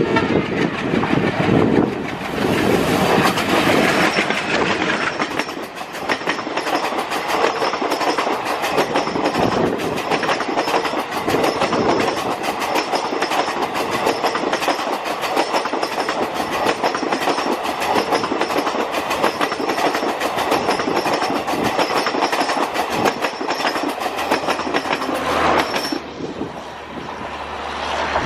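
Indian Railways passenger train hauled by a WDM3D diesel locomotive passing close by at speed, its coach wheels clattering rhythmically over the rail joints. The noise drops sharply near the end as the train goes by.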